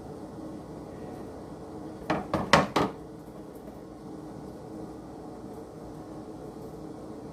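Four quick knocks in a row, about two seconds in, from kitchen items being handled, over a steady low hum.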